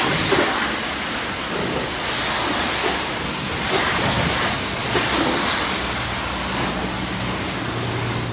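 High-pressure water spray from a self-service car wash wand, hissing against the car and swelling and fading as the jet sweeps, then cutting off suddenly at the end. A low hum comes in a couple of seconds before the spray stops.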